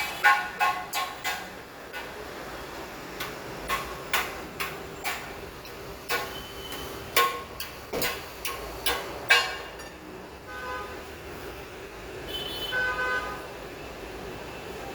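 Hammer blows on car body sheet metal during dent repair, each strike sharp and ringing, coming irregularly about once or twice a second and dying out about nine seconds in, followed by fainter ringing tones.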